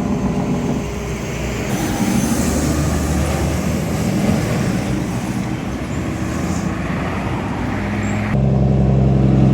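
Road traffic: vehicle engines running and passing, with a steady low engine hum taking over suddenly near the end.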